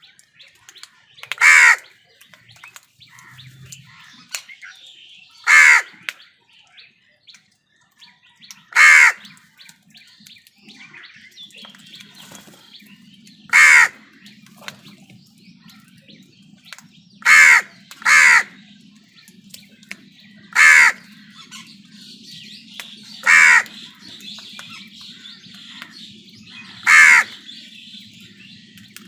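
Crows cawing: single loud, harsh caws every few seconds, with one quick pair near the middle. Faint chirping of smaller birds and a faint low steady hum lie underneath.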